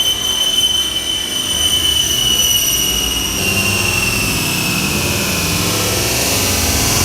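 Ilyushin Il-62 jet airliner's engines at takeoff power: a steady high whine over a low rumble, the whine sinking slowly in pitch in the second half.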